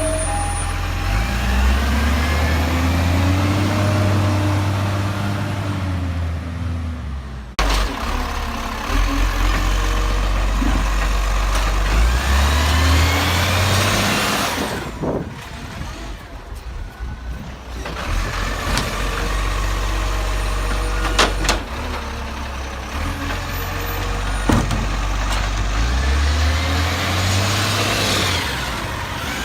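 Garbage truck diesel engine revving up and falling back several times, with a few short sharp sounds in between.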